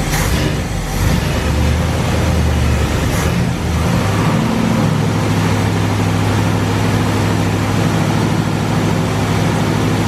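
Chevrolet 350 small-block V8 running: an uneven, shifting engine note with a few sharp clicks for the first few seconds, then settling into a steady idle about four seconds in. It runs without smoking.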